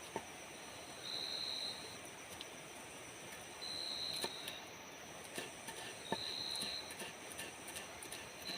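Forest ambience: steady high-pitched insect buzzing, with a short high call repeating about every two and a half seconds and scattered light clicks.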